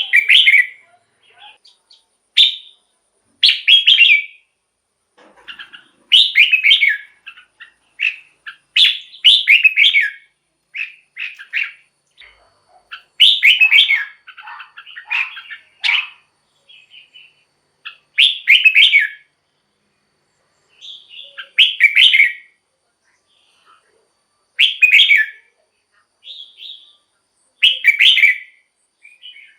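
Red-whiskered bulbul singing: short, clear whistled phrases, each under a second, repeated every two or three seconds, with fainter notes in between.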